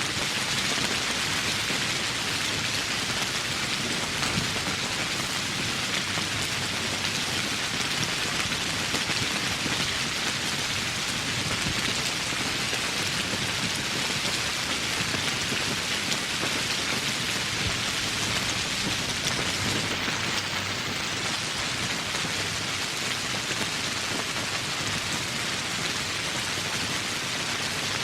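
Steady rain falling, a dense, even hiss of countless drops with no let-up.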